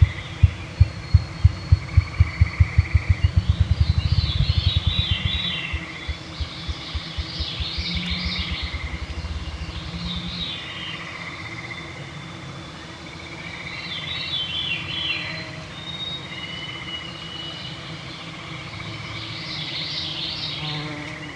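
Evening woodland chorus of songbirds and gray treefrog trills. For the first ten seconds a run of loud low thumps speeds up into a rapid flutter, then fades out.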